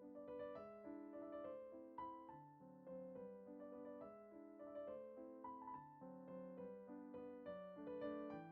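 Soft background piano music: a gentle melody over chords, with notes struck about twice a second.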